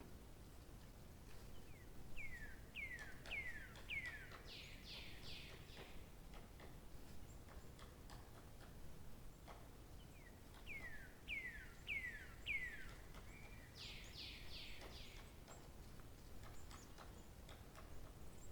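A songbird singing the same phrase twice, about eight seconds apart: four or five falling whistled notes, then a quick run of higher notes.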